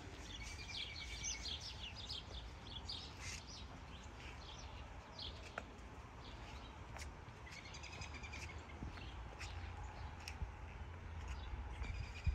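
Small birds chirping, with many short high calls scattered throughout, over a faint steady low rumble.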